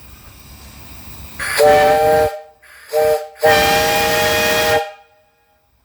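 Three-chime steam whistle on a live-steam boiler blown three times: a blast, a brief one, then a longer one, each sounding a chord of three steady tones over the rush of steam. A faint steam hiss comes before the first blast.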